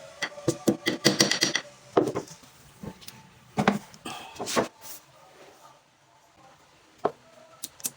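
Irregular clicks and knocks of hard objects being handled, in quick clattering runs for the first five seconds, then a single knock and a few clicks near the end.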